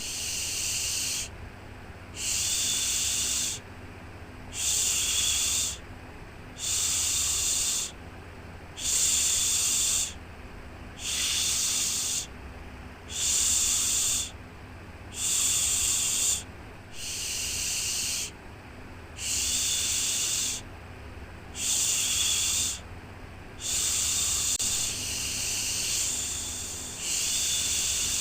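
A soothing 'shhh' shushing sound for lulling a baby to sleep, repeated in even pulses about every two seconds, each shush lasting a little over a second. A low steady hum runs underneath.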